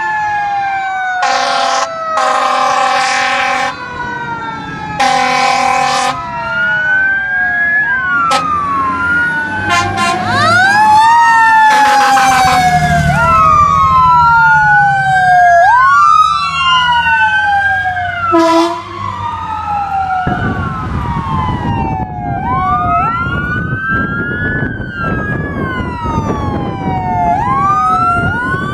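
Fire apparatus sirens wailing, two or more at once, each rising and falling every couple of seconds. Air-horn blasts cut through them, three long ones in the first six seconds and shorter ones later. From about twenty seconds in, a heavy truck engine rumbles loudly as it passes.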